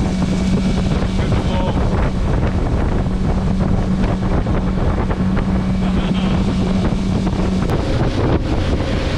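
Motorboat engine running steadily under way, with wind and water rushing over the microphone. The engine's steady hum falls away a little before the end.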